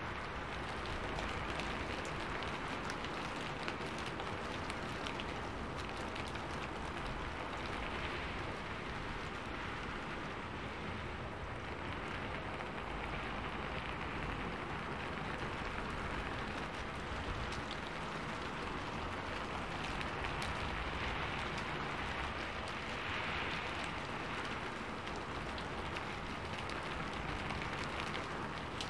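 Steady rain falling: an even hiss full of small drop impacts, swelling slightly now and then.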